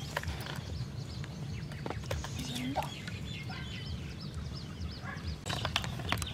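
Birds calling with many short, repeated chirps over a steady low rumble.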